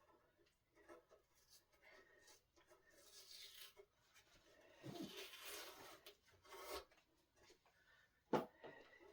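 Cloth rubbing and wiping across a solid-wood tabletop in a few stretches of strokes, with a single sharp knock near the end.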